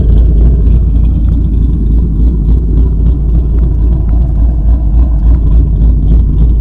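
The 5.0 V8 of a 2013 Mustang GT running steadily with a deep, low exhaust rumble, breathing through JBA long-tube headers, an off-road H-pipe with the resonators deleted, and GT500 mufflers.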